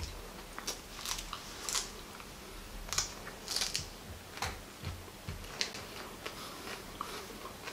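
Close-up chewing and biting of raw agati (Sesbania grandiflora) flowers: irregular crisp crunches, wet mouth clicks and lip smacks.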